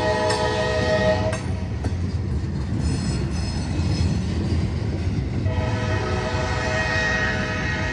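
Diesel freight locomotive's air horn blowing a chord, breaking off about a second in and sounding again for a long blast near the end, over the steady low rumble of the passing train.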